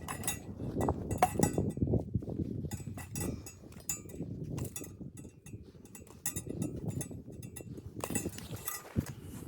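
Irregular light knocks and clinks, several a second, that thin out in the middle and pick up again near the end.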